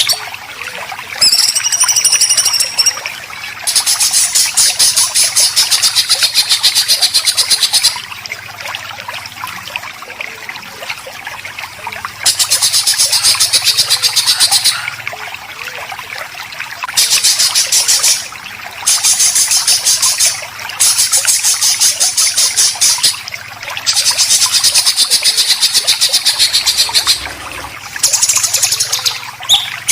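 Songbird giving harsh, rapid chattering 'besetan' calls in bursts of two to four seconds, with short pauses between them. A brief clear whistle comes about a second and a half in.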